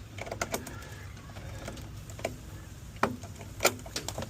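Sharp metallic clicks and taps of a hand tool working at a car battery terminal, a handful of separate strikes with the loudest about three and a half seconds in.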